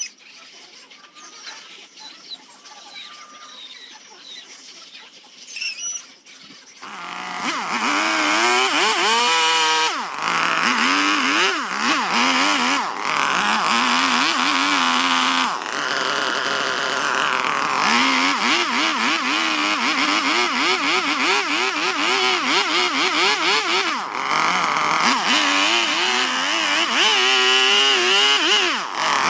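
A handheld power tool's motor starts about seven seconds in and runs on, its pitch repeatedly dipping and rising as it is pushed into and eased off the wood, with a few brief lets-up.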